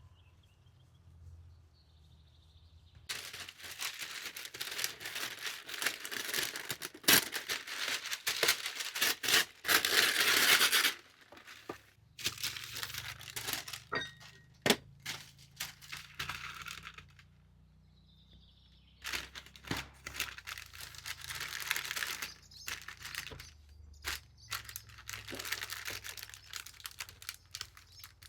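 Rustling, crinkling handling noise in three long bursts, with scattered sharp clicks and short pauses between.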